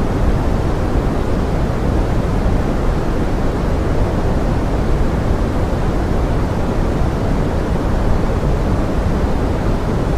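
Steady pink noise blended with forest rain: an even, unbroken hiss, heaviest in the low end and thinning toward the highs, with no separate drops or events standing out.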